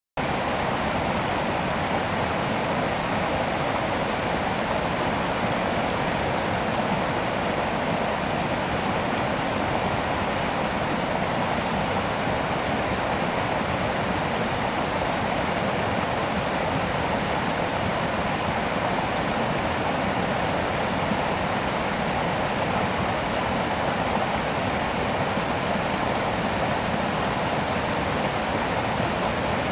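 Fast-flowing stream of water rushing steadily, an even, unbroken rush.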